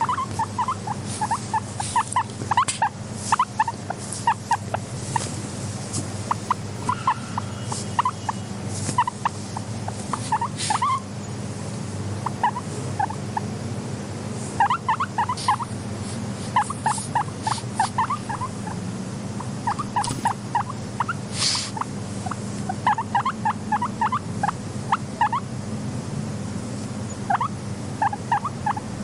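Guinea pig making short squeaky calls in quick runs, with scattered sharp clicks and a steady low hum underneath.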